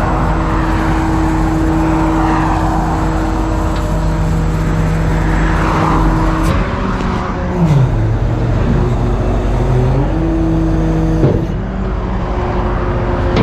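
Tow truck engine running steadily; about halfway through its speed drops for a couple of seconds, then comes back up. Freeway traffic is passing at the same time.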